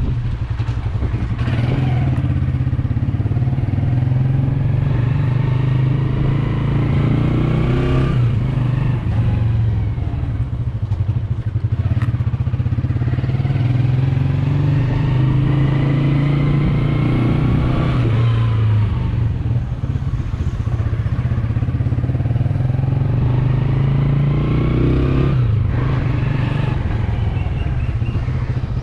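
Yamaha YBR125G's single-cylinder 125 cc four-stroke engine running while riding, its pitch climbing with speed and dropping back sharply about three times at gear changes.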